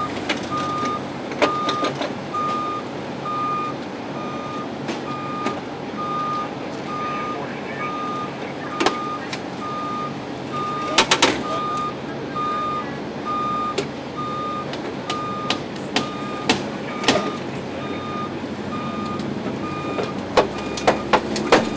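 A vehicle's backup alarm beeping steadily, one tone repeating about every three-quarters of a second, over an idling engine, with scattered sharp knocks and clanks.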